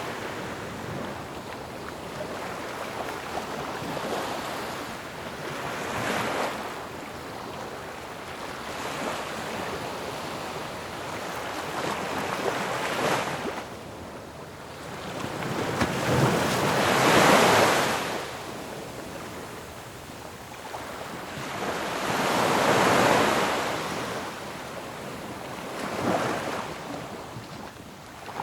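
Ocean waves breaking on a shore, a steady wash of surf swelling with each wave; the two biggest crashes come a little past the middle and about four-fifths of the way in.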